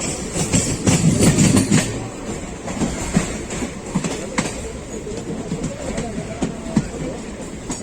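Passenger train coach running along the track, wheels clicking irregularly over rail joints over a steady rumble, with a louder rush about a second in.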